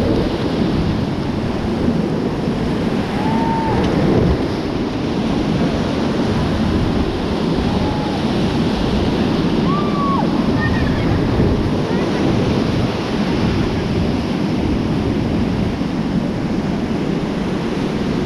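Rushing whitewater of a mountain river's rapids, a steady loud noise, with wind buffeting the microphone.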